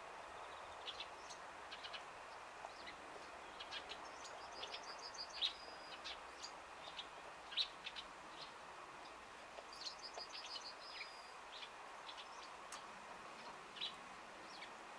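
A songbird singing faintly: a short high phrase of quick notes ending in a held note, heard twice about six seconds apart, with scattered single chirps in between.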